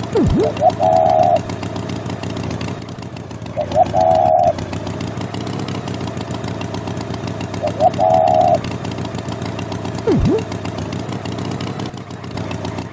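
A steady engine-like drone, with a short wavering tone about every four seconds and a few quick dipping pitch swoops, in a repeating pattern.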